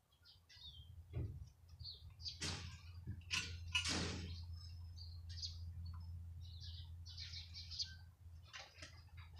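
Small birds chirping in short, scattered high calls, with a few louder, sharper sounds in the first four seconds. A low steady hum runs underneath from about a second in.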